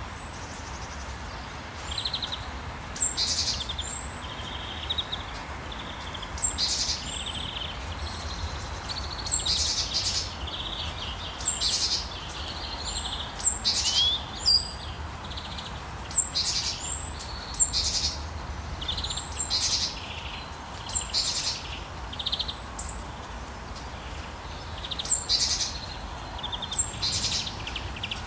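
Birds chirping and calling in short high bursts about once a second, over a steady background hiss.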